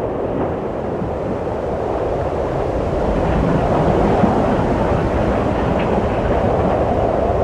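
Wind blowing steadily, a low rushing noise that swells a little about three seconds in.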